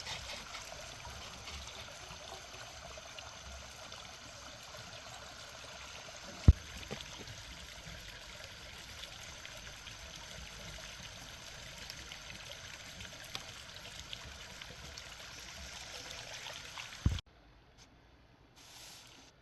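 Water trickling steadily, with one sharp knock about six seconds in; the trickling cuts off suddenly near the end after a second knock.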